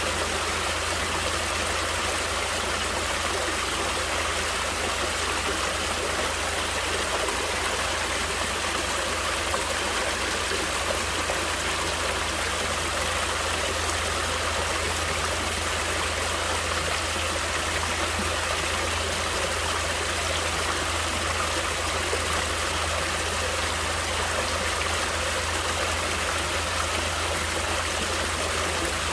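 Natural water flowing steadily, an even unbroken rush with a constant low rumble underneath.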